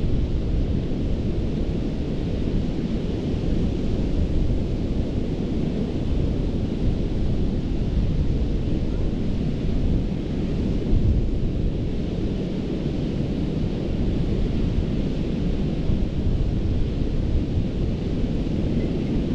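Gulf surf breaking and washing onto a sandy beach, a steady low rumble with a softer hiss above it, with wind buffeting the microphone.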